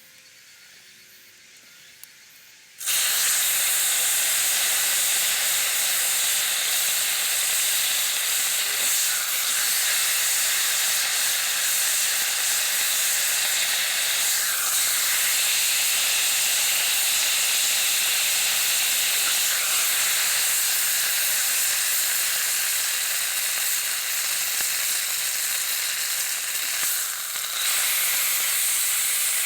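Beef sizzling in a hot cast-iron Dutch oven: a steady, loud sizzle that starts suddenly about three seconds in, after a faint hiss.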